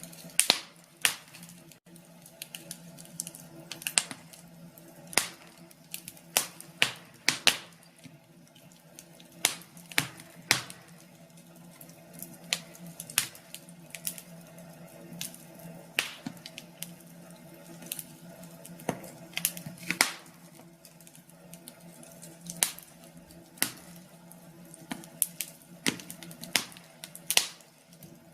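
Wood fire crackling: irregular sharp pops and snaps, often in quick clusters, over a faint steady background.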